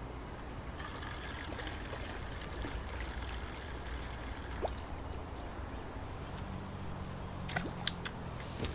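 Trickling water over a steady low rumble, with a few sharp clicks near the end.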